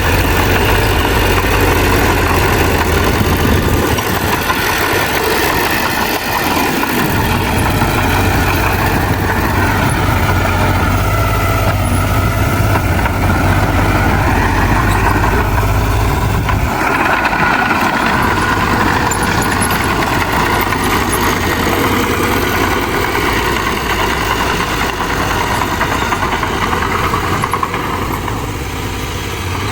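Heavy diesel earthmoving machinery, a bulldozer working soil, running continuously. Its deep engine sound drops away briefly twice, about four and seventeen seconds in.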